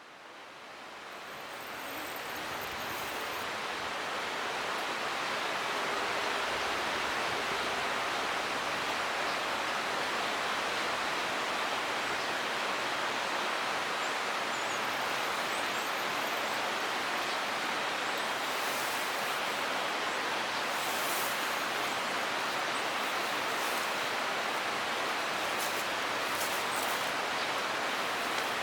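Steady rush of flowing water, fading in over the first few seconds and then holding even.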